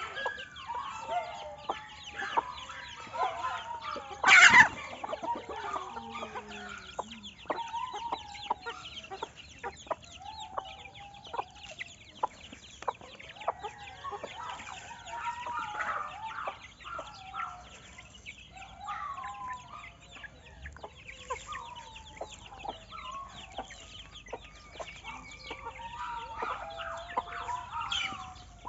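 Chickens clucking, many short calls overlapping, with one loud, sharp call about four and a half seconds in.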